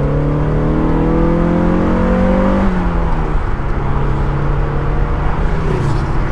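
Mazda Miata's four-cylinder engine pulling under acceleration, its pitch rising steadily, then the revs drop about two and a half seconds in and it runs on at a steady lower pitch.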